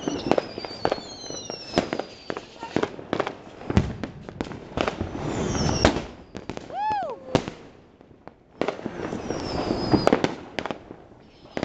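Fireworks and firecrackers going off all around: a dense run of sharp bangs and cracks, with high whistles sliding down in pitch. The bangs thin out briefly about eight seconds in, then pick up again.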